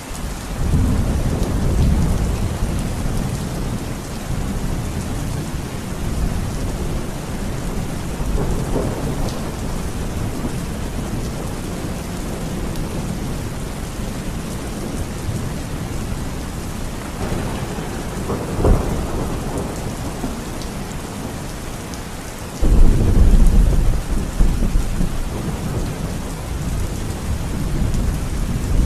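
Steady rain with thunder. A low rumble rolls in at the start, a sharper crack comes about two-thirds of the way through, and a loud rumble begins suddenly a few seconds after that.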